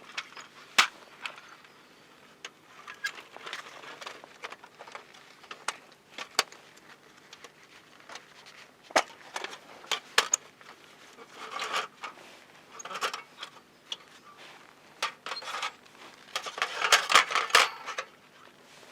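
Handling noises of camp cooking gear: irregular clicks and light knocks with a few short rustling, scraping bursts, the loudest cluster near the end.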